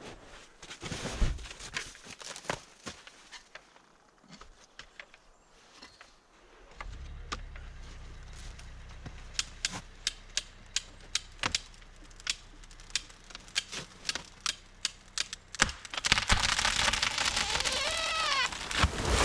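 Chainsaw idling with a steady low hum, under a run of sharp clicks about two a second, then revved up louder near the end, its pitch rising and falling.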